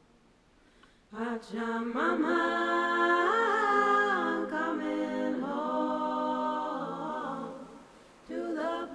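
Unaccompanied singing voice holding long, slowly gliding notes. It starts about a second in, fades out near the end and comes back just before the end.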